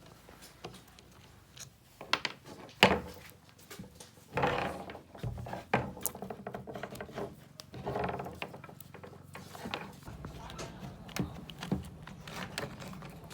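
Scattered clicks and knocks of hand work, with two longer scraping sounds about four and eight seconds in.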